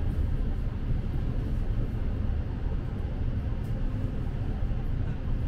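Train rumbling through a station: a steady low rumble with no rise or fall.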